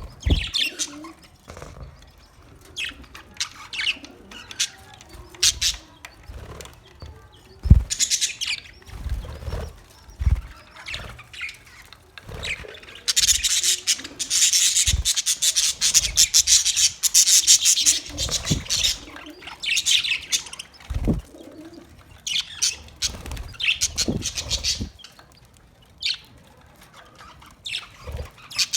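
Budgerigars chirping and chattering in quick high bursts, with a long stretch of dense, continuous chatter in the middle. A few short low thumps are scattered through it.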